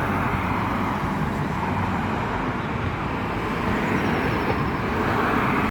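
Northern Ireland Railways class 3000 diesel multiple unit running through the station, a steady rush and rumble that cuts off suddenly at the end.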